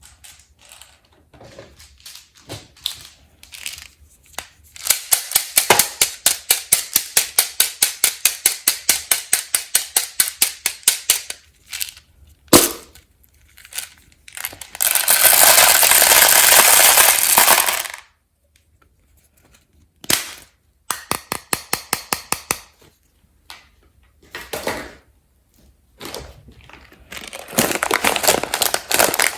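Peanut M&M's and their candy packaging being handled close to the microphone: a long run of quick, even clicks, one sharp knock, then about three seconds of dense steady noise, with more scattered clicks later.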